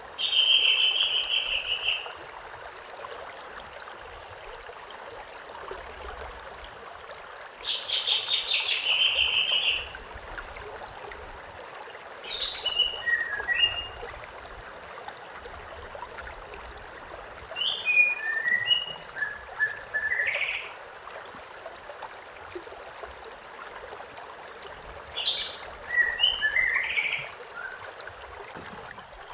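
Steady rush of a running stream, with a songbird singing five short phrases over it a few seconds apart. The first two phrases are buzzy trills; the later ones are quick strings of separate notes.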